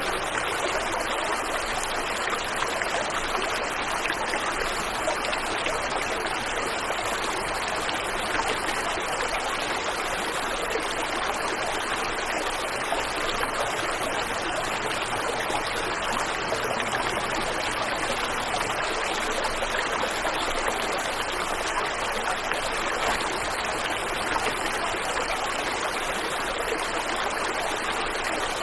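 Waterfall and river water rushing steadily, an even, unbroken noise of falling and flowing water.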